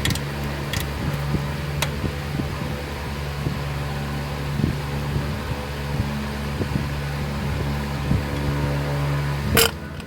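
Electric shop fan running with a steady hum, with scattered light clicks and one sharp knock near the end.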